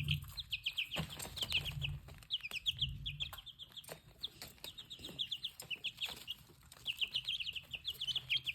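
Baby chicks peeping: short, high chirps in quick clusters, each sliding down in pitch. A low rumble sits under them for the first three seconds or so.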